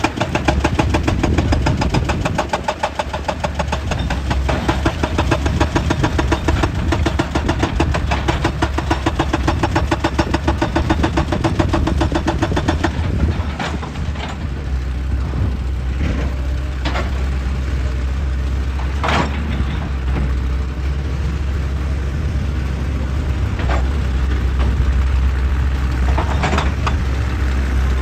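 Heavy excavator's diesel engine running with a strong low rumble. Over it comes a rapid, even hammering that stops about halfway through, followed by a few separate sharp knocks.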